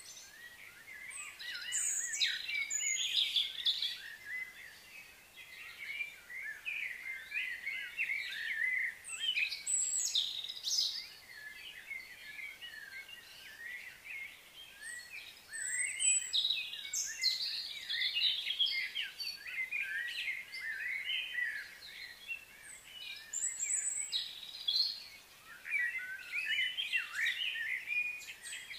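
Birds chirping and twittering, many short overlapping calls coming in busy spells every few seconds.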